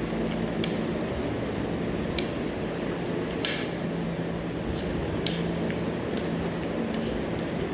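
Scattered light clicks and scrapes of cutlery on a plate while eating, about a dozen, the sharpest about three and a half seconds in, over a steady low hum.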